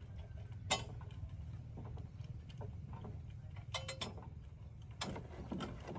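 Heavy machine's diesel engine idling with a low, steady rumble, with scattered sharp metallic knocks over it: a loud one in the first second, a quick cluster near four seconds and another just after five.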